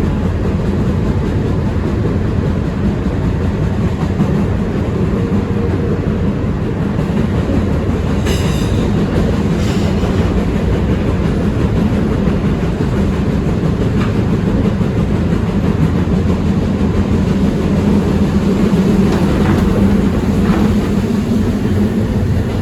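R160B Siemens subway train running along the track: a steady rumble of wheels on rail with a few clacks over the joints, and a brief high squeal about eight seconds in.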